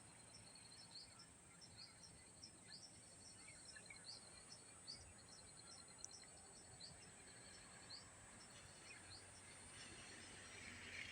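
Faint rural outdoor ambience: small high chirps repeating about once a second over a fast pulsing trill. A rushing noise swells near the end.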